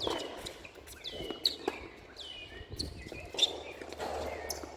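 Tennis rally: rackets striking the ball, two sharp hits about two seconds apart, amid repeated short high chirps.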